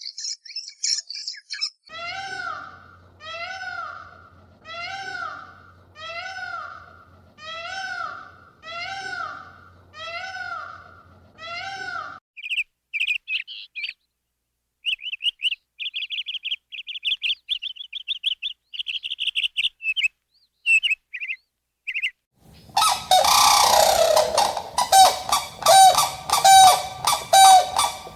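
Birds calling in turn: eight evenly spaced, arching calls about one and a half seconds apart, then fast high trilling chirps, then a flock honking and squawking loudly near the end.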